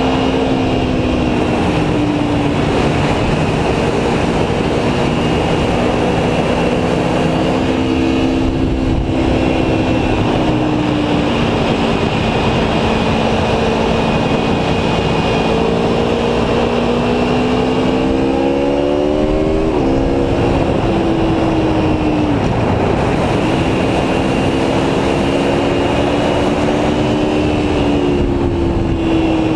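Aprilia Tuono V4 1100 Factory's V4 engine pulling under way over heavy wind noise. Its pitch climbs steadily from about halfway through, drops sharply a few seconds later at an upshift, then holds steady again.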